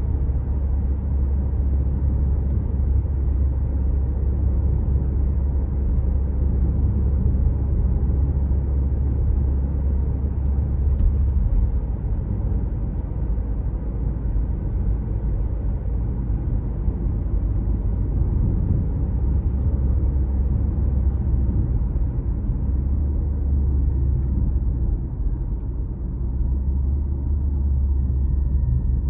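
Car driving on the road: a steady low rumble of engine and tyres, easing slightly twice and building again.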